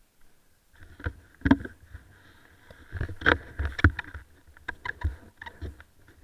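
Irregular muffled knocks and bumps, about a dozen over five seconds, with a faint steady high whine underneath, typical of an action camera being handled or jostled.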